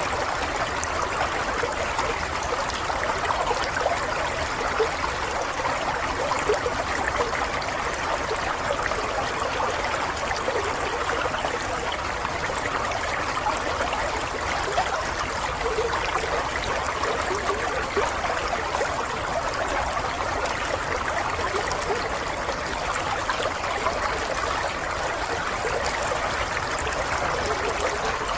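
Running water, a stream or brook trickling and babbling steadily over stones.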